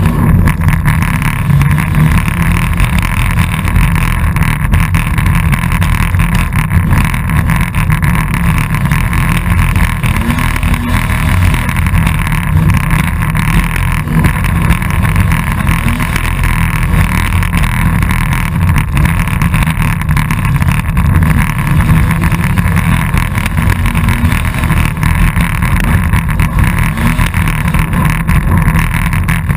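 Dirt-dash race car's engine running loud as it is driven over a rough dirt course, heard from inside the car, its pitch rising and falling now and then with the throttle. The engine noise is mixed with constant rumble and buffeting from the rough ride.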